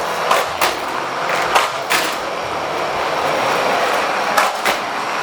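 Toy monster trucks rattling around a plastic playset track: a steady rumble with irregular sharp clicks and knocks.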